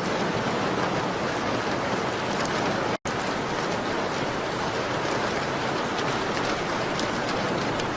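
Steady rain on a window, with faint fireplace crackles mixed in as scattered sharp ticks. The sound cuts out completely for a split second about three seconds in.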